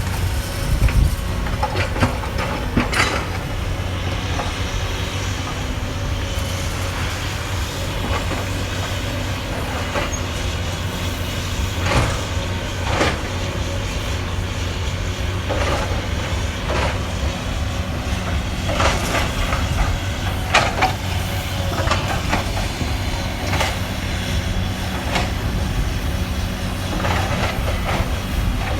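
Caterpillar 320D excavator's diesel engine running steadily under load, with irregular crashes and clanks of concrete and debris breaking as it demolishes a building.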